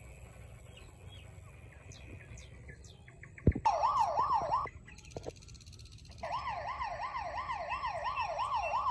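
Electronic toy police-car siren yelping in a fast up-and-down wail, about three cycles a second. It sounds briefly a little before the middle, stops, then starts again and keeps going; a sharp click comes just before it first starts.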